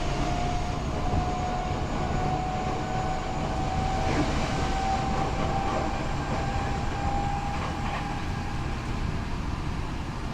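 Tokyo Metro 8000 series train running, heard from inside the car: a steady rumble of wheels on rail, with the Mitsubishi IGBT VVVF inverter's thin motor whine slowly rising in pitch and then fading out about eight seconds in.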